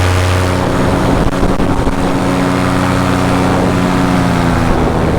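Paramotor engine and propeller running steadily on throttle, with air rushing past in flight.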